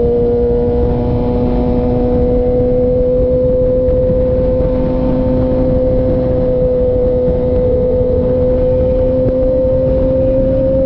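2006 Suzuki GSX-R600 inline-four through a Coffman's aftermarket exhaust, pulling in one gear, its pitch rising slowly and steadily as the bike gathers speed.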